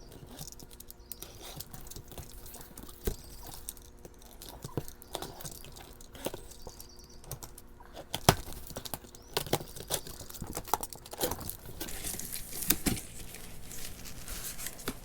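Cardboard shipping box being opened with a knife: tape cut and torn, flaps pulled back, with irregular scratching, tearing and clicking and cardboard and packing rustling.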